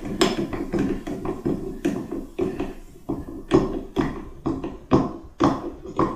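Phillips screwdriver driving the screw that holds a tub/shower faucet handle, giving a run of irregular clicks and taps of tool and handle parts knocking together, louder in the second half.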